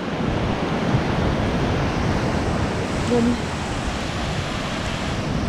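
Steady rush of surf and water at a river mouth where the sea meets a lagoon, an even noise with no breaks.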